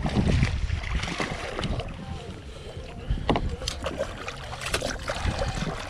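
Wind buffeting the microphone over water lapping at a small boat, with a few sharp clicks and splashes as a redfish is handled and let go.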